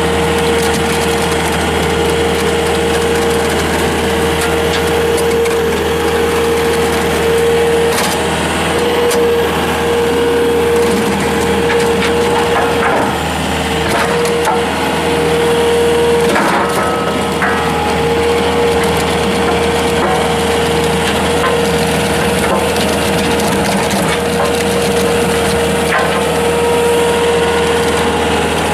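Bobcat S220 skid steer's diesel engine running steadily under load, driving a CID Xtreme high-flow rototiller as it churns through hayfield soil, with a steady high tone over continuous crackling and occasional sharp clicks.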